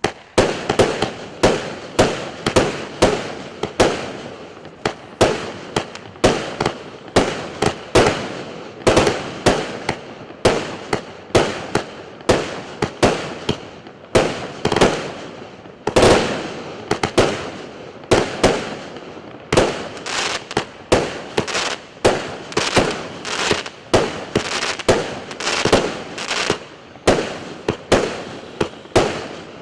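Firework cake (salute battery) firing a rapid sequence of shots, about two a second, each a sharp bang with a short decay.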